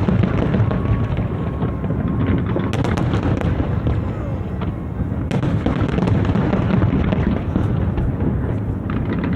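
Large aerial fireworks display: many shells bursting in rapid, overlapping booms, with sharper crackling about 3 and 5 seconds in.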